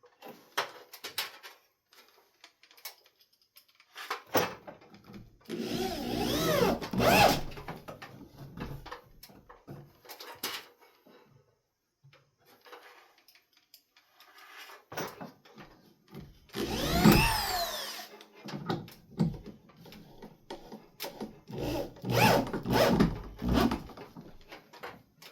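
Power drill driving screws in three bursts, about five, sixteen and twenty-two seconds in, its whine rising and falling in pitch as the motor speeds up and slows. Scattered knocks and handling clatter come between the bursts.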